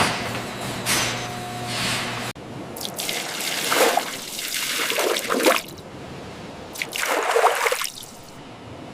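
Liquid splashing and pouring in several surges, after a steady machine hum that cuts off about two seconds in.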